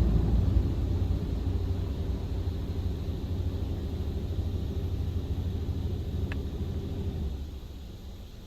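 Steady low rumble and hum heard from inside a car in an in-bay automatic car wash, once the loud spray on the car has stopped. It drops away about seven seconds in.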